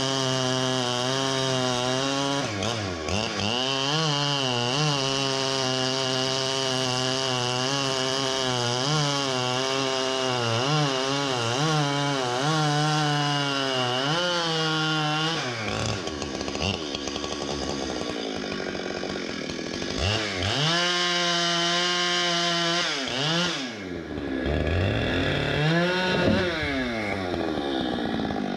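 Two-stroke chainsaw cutting wood, its engine pitch held and wavering under load for the first half. It falls off about halfway through, then revs up again twice near the end.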